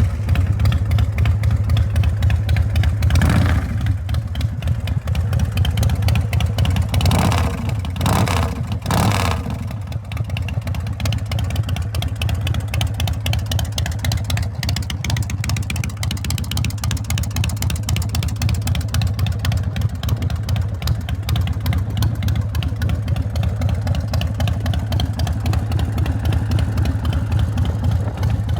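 2006 Big Dog Ridgeback's V-twin engine running, blipped several times in the first ten seconds and then idling steadily.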